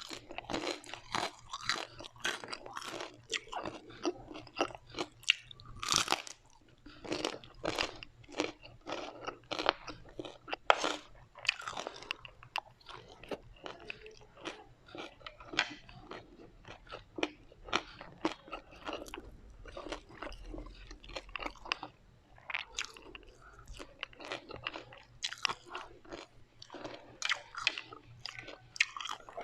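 Crunching and chewing of crisp fried food, a steady run of sharp crunches with a few louder bites about six and eleven seconds in.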